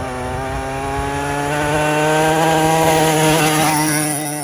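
50cc quad bike engine running flat out at high revs, its pitch creeping up and growing louder to a peak about two to three seconds in as the quad comes past.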